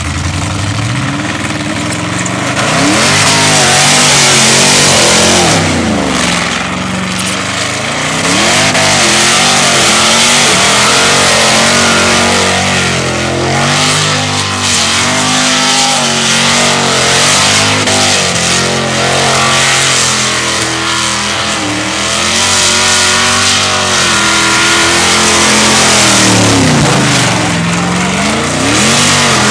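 Supercharged Holden Commodore engine revved hard and repeatedly, its pitch rising and falling over and over as the rear tyres spin in a burnout, with a constant loud hiss of spinning, smoking tyres.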